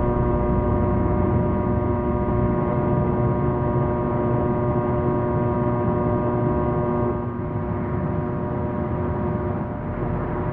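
A steady mechanical hum: several fixed tones over a low rumble, easing slightly about two-thirds of the way through.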